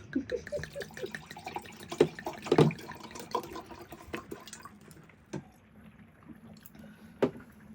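Wine being poured from a freshly uncorked bottle into a glass, glugging in quick pulses for the first few seconds, followed by a few light clinks and clicks.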